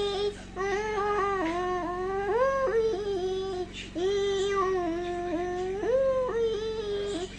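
A high, voice-like wail in long held notes that bend up and down in pitch, broken by two short pauses.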